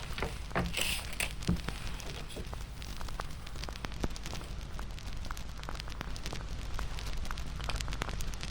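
Bonfire crackling: irregular sharp pops and snaps over a steady hiss and low rumble, with a brief louder hiss about a second in.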